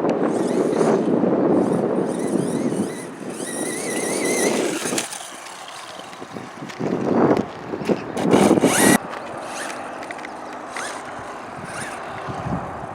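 Electric RC car running on a dirt track: a high warbling motor whine and tyres scrabbling over loose dirt, with heavy noise in the first few seconds and loud bursts about seven to nine seconds in.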